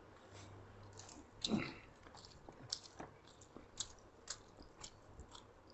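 Chewing and lip-smacking of people eating chicken, pork and rice by hand: scattered small wet clicks and smacks, one louder about a second and a half in.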